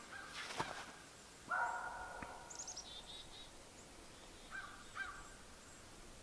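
Faint birds calling: a harsh, pitched call lasting under a second about a second and a half in, a quick run of high, falling chirps about three seconds in, then two short calls near the end.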